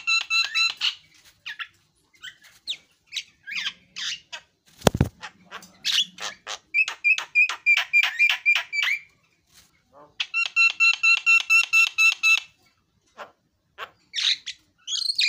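Javan myna singing: rapid strings of harsh pulses, about seven a second. Some strings carry a steady ringing pitch, others are scratchy and vary. There is a single low thump about five seconds in.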